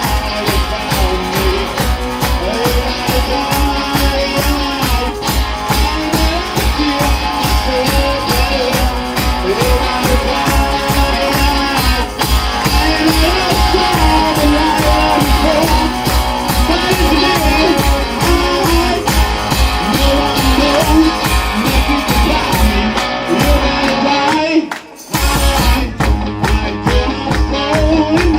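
Live blues-rock band playing an instrumental passage, with guitar over a steady driving beat; the music drops out briefly and comes back in near the end.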